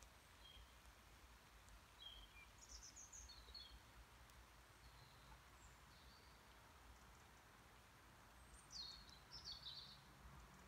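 Near silence, with faint bird chirps in two short clusters, about two to three seconds in and again near the end.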